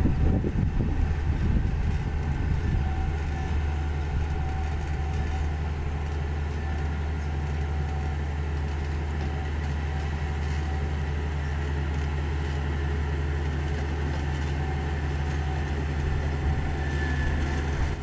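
Diesel engine of a Komatsu GD555 motor grader running steadily under load, a deep drone, a little rougher and louder in the first couple of seconds.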